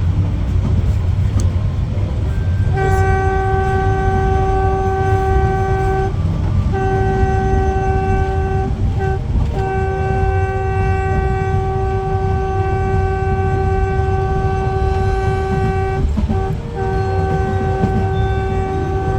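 Train horn blowing in long, steady blasts, starting about three seconds in, with brief breaks and one short toot between them, over the low rumble of the moving train. The horn warns people, children, animals and motorbikes on the line.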